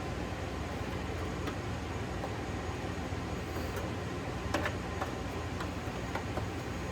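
Steady low mechanical hum with a few light clicks, the sharpest about four and a half seconds in.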